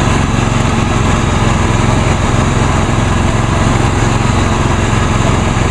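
Lawn tractor's 22 hp Briggs & Stratton Intek V-twin running steadily. It is still not running right, which the owner puts down to carburetor issues.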